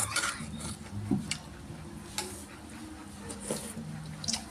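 Eating sounds: scattered short clicks and taps of a utensil against a bowl while soup is eaten.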